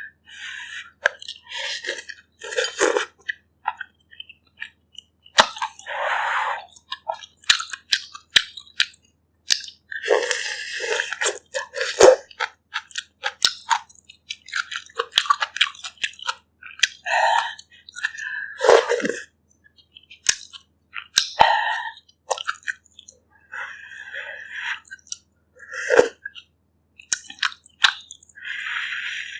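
Close-miked eating sounds from someone eating pork ribs in broth: chewing with irregular wet mouth clicks and smacks.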